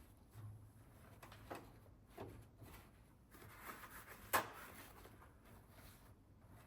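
Quiet kitchen handling sounds: a few soft knocks and clicks of things being set down or moved, with one sharper knock about four and a half seconds in.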